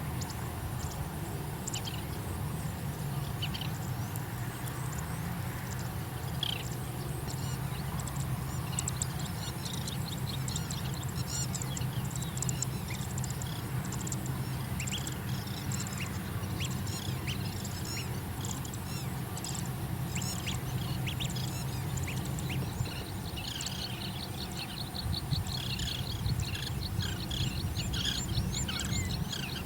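Birds giving short, scattered chirps and calls over a steady low rumble. A fast, even trill joins about three-quarters of the way through.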